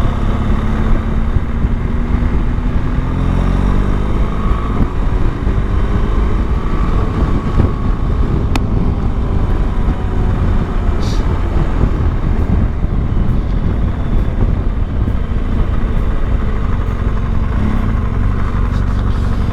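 Motorcycle engine running as the bike is ridden, its pitch climbing over the first few seconds as it accelerates, then running steadily with a heavy low rumble.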